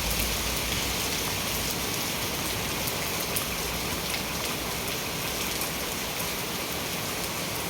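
Rain falling steadily: an even hiss with many separate drops ticking through it.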